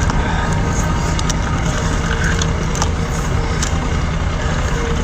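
A boat's engine running steadily with a low drone, and a few light clicks over it.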